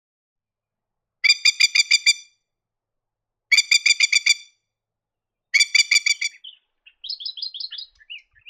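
Masked lapwing calling: three loud bursts of about eight rapid repeated notes, roughly two seconds apart, then a quieter, quicker run of notes near the end.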